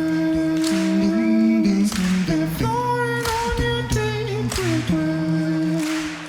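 Two beatboxers performing a cappella: long held, hummed vocal notes in harmony that shift pitch every second or two, over sharp mouth-made snare or clap hits about once a second.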